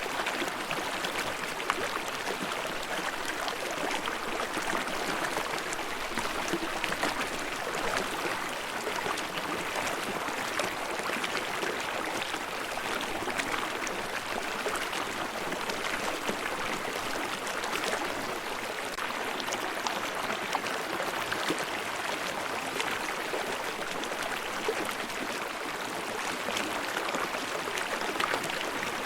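Steady rushing and babbling of a small river running over rocks and falls, with fine splashing throughout.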